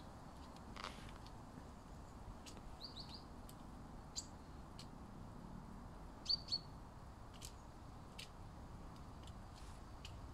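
Faint, scattered short high chirps of small birds, a few separate calls spread over several seconds, with a pair close together about six seconds in.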